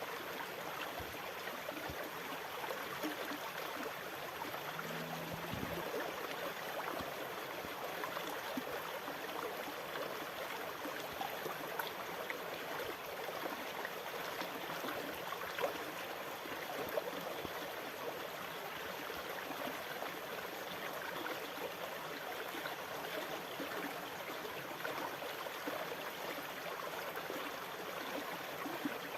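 Continuous rushing, splashing water, even in level throughout, with no distinct wave surges.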